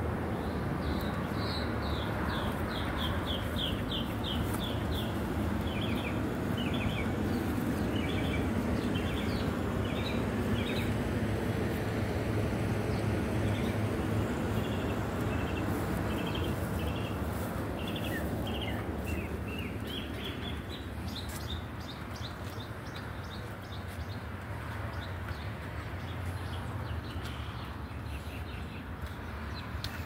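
A bird calling in quick runs of short, high chirps, several notes a second, over a steady low rumble.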